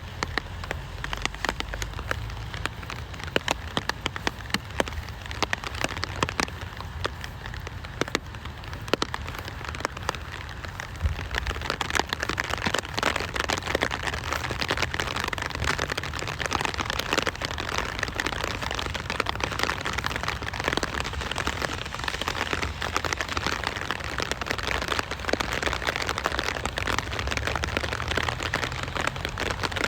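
Rain falling steadily, with many individual drops pattering and a low rumble underneath; it grows a little heavier about twelve seconds in.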